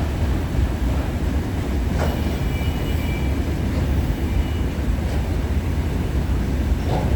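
Freight train cars rolling past: a steady low rumble with two sharp wheel clicks over rail joints, one about two seconds in and one near the end, and a faint high wheel squeal in the middle.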